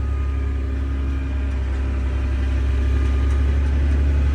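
Miller G75 self-propelled sprayer running in the field: a steady, low engine drone with a constant pitch that grows slightly louder about halfway through.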